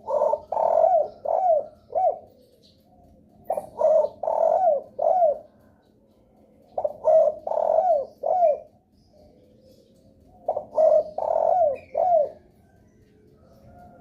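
Derkuku (spotted dove) cooing: four phrases of four to five low coos each, about one phrase every three and a half seconds. It is a lure call used to set other derkuku calling.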